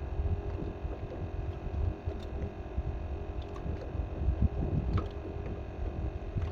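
Steady low rumble on a drifting boat, with a faint steady hum and a few light clicks.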